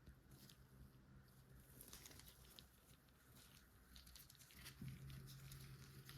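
Faint scattered clicks and light rustles of LEGO pieces being handled and fitted together.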